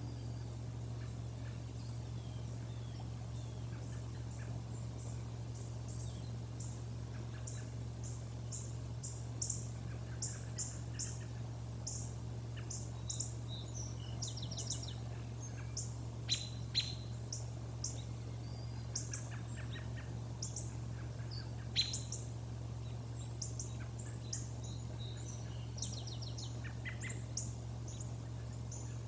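Birds calling: many short, high chirps coming thick from about six seconds in, with a few downward-sliding notes, over a steady low hum.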